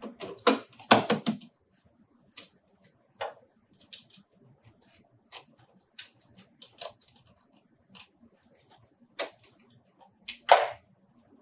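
Irregular clicks and knocks in a small room: a quick cluster at the start, scattered lighter taps through the middle and a louder knock near the end.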